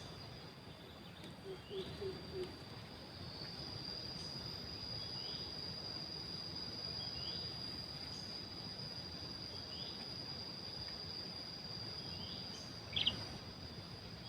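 Insects trilling in one steady high tone throughout, with a short rising chirp every two to three seconds from a pikat lure call imitating a sooty-headed bulbul. One louder, sharper chirp comes near the end.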